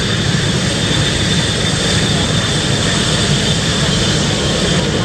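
McDonnell Douglas F/A-18 Hornet jet engines running steadily on the ground, a constant roar with a high whine held over it.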